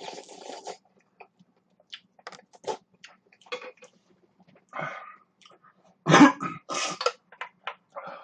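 Close-up eating sounds from a person eating instant ramen: a short slurp at the start, scattered mouth clicks and smacks, then a loud double cough-like burst about six seconds in.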